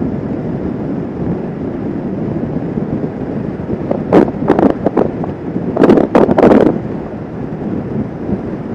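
Wind rushing over the microphone on a moving motorcycle, with the bike's running mixed into a steady rumble. Louder gusts of wind buffeting hit about four seconds in and again around six seconds in.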